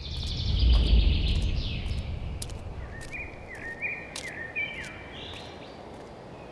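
Songbirds singing in the open air: a fast high trill, then a run of short repeated chirps. A low rumble swells about a second in and fades, and faint sharp clicks are scattered throughout.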